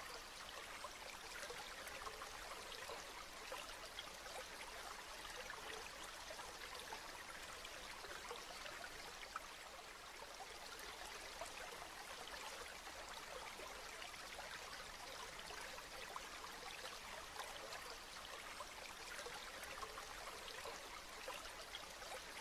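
Steady rain falling: a fine, even patter of countless drops, with a few sharper single drop hits standing out.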